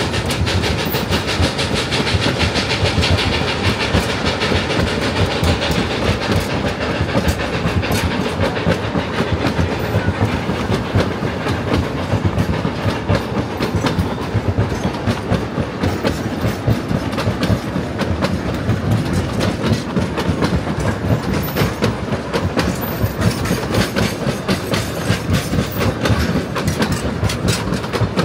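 A narrow-gauge train rolling past, its wheels clicking over the rail joints in a steady clickety-clack.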